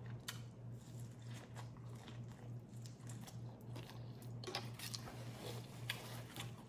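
A person eating from a crawfish boil close to the microphone: faint chewing with scattered small crunches and clicks, over a steady low hum.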